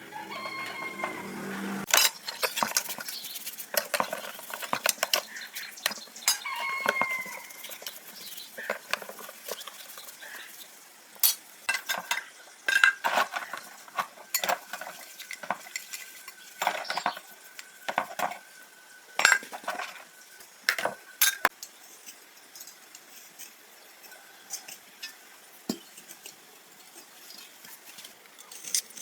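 Metal tools and parts clinking and clattering in irregular knocks during hand repair work, with a chicken calling twice in the background.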